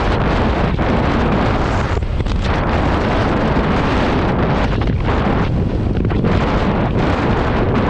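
Loud, steady wind buffeting the microphone of a scooter rider in strong gusting wind, easing briefly about two seconds in and again around five to six seconds in.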